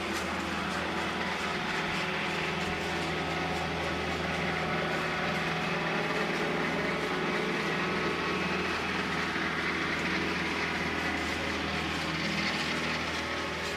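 Tractor engine running steadily at a constant speed, a low hum with a broad mechanical rush over it.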